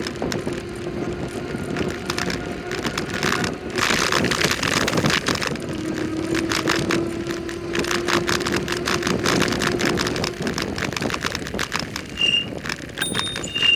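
Bicycle riding on a road: continuous tyre and road noise with rapid rattling and a steady low hum. A brief high-pitched squeal comes near the end.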